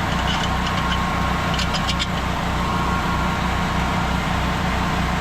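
Small petrol engine of a soft-wash rig's generator or pump running steadily, with a few light metallic clicks near the start and about two seconds in.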